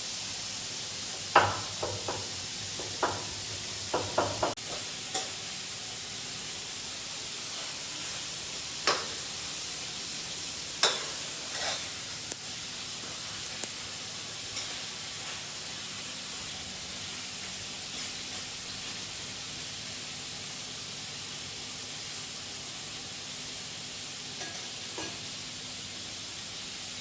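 Steady hiss with scattered short clicks and knocks, most of them in the first half.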